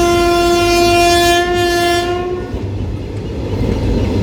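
Locomotive horn sounding one long steady note that cuts off about two and a half seconds in, over the steady low rumble of the running train.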